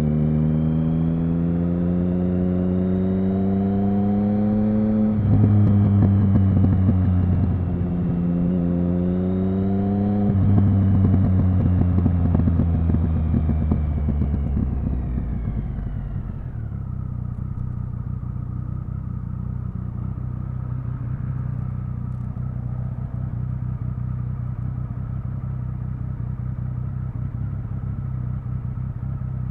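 Triumph Speed Triple 1050's inline three-cylinder engine and exhaust accelerating through two upshifts, the pitch climbing in each gear and dropping at each shift, then falling away as the bike slows. It then settles into a steady low idle for the last dozen seconds.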